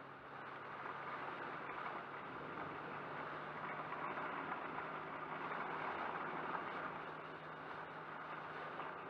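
Heavy rain falling on a car, heard from inside the cabin as a dense steady hiss over a steady low hum from the car.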